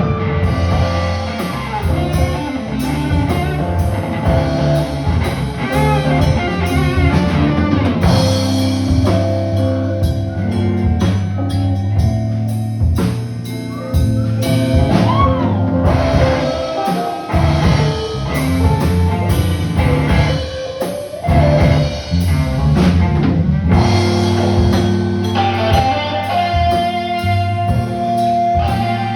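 Live band music: guitar played over a drum kit.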